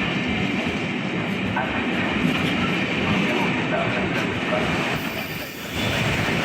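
Train passing on the tracks: steady wheel and rail noise, dipping briefly about five and a half seconds in.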